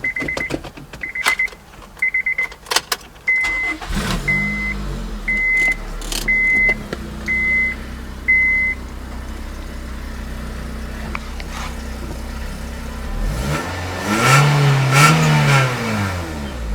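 A warning chime beeps about once a second amid a few clicks. About four seconds in, a 2002 Honda Civic EX's 1.7-litre four-cylinder starts and settles into a steady idle, with the chime going on until about nine seconds. Near the end the engine is revved once and drops back to idle.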